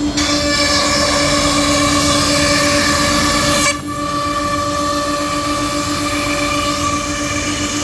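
CNC router cutting wardrobe panels: the spindle runs with a steady whine, and the noisier cutting sound starts right at the beginning, breaks off briefly about halfway through, then resumes.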